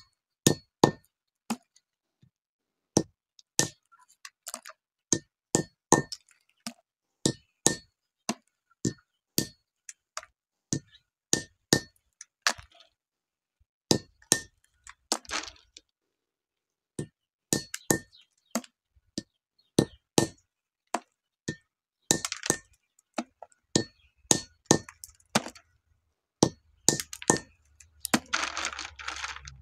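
Hard Syrian juniper (andız) berries being cracked open by repeated striking: a string of sharp clinking knocks, about one to two a second, each ringing briefly, with a rustling scrape a little before the end.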